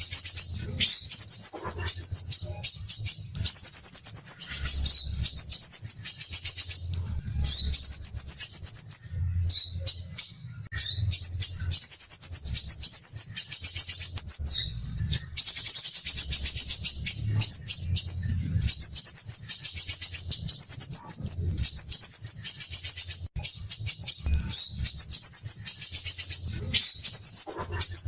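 Crimson sunbird singing: rapid, dense, rasping high-pitched trills in phrases of about a second, repeated back to back with short pauses.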